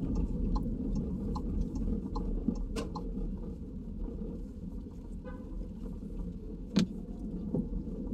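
Steady low road and engine rumble inside a moving car's cabin. Faint regular ticking runs through the first few seconds, and there are two sharp knocks, about three seconds in and near the end, the later one the loudest.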